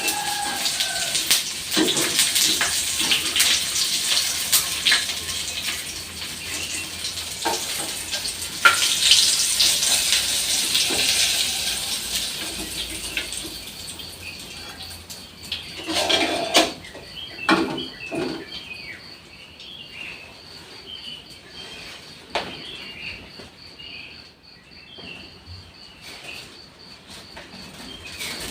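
Water running and splashing with pots and dishes clattering, easing off about halfway through. Scattered knocks and short bird chirps follow.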